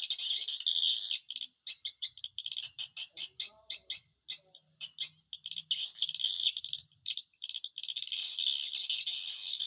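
Swiftlets chirping: a dense, continuous chatter of rapid high-pitched chirps and clicks.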